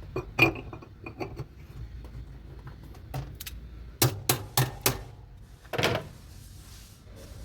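Metal knocks and clanks from work on a top-load washing machine's transmission and drive block: a few scattered taps, then four quick knocks about a third of a second apart, then a longer clatter.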